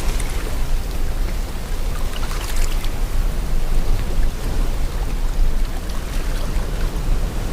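Sea water washing and wind blowing: a steady rushing wash with a deep rumble underneath, and a brighter splashing hiss about two to three seconds in.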